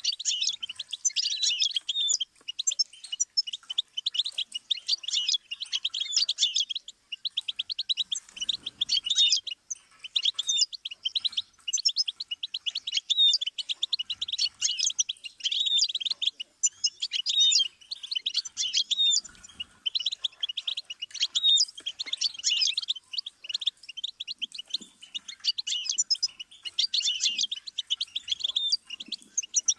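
Goldfinch singing continuously: fast, high-pitched twittering phrases and rapid trills, separated by short pauses.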